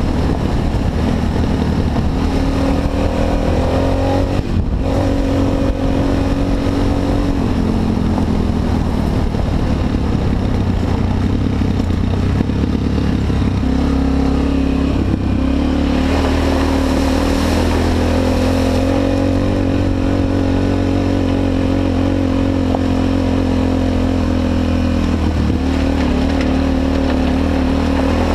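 Honda XR250 Tornado's single-cylinder four-stroke engine running under way, its note rising and falling as the throttle changes, with a brief break in the sound about four and a half seconds in.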